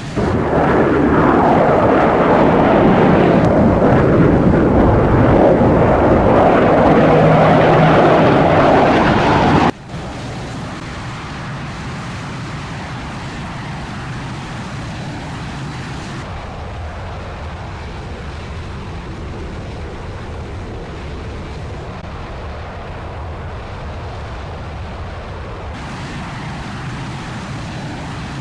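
Loud jet aircraft engine noise, a dense rushing roar for about ten seconds, then an abrupt cut to a quieter, steady rushing noise.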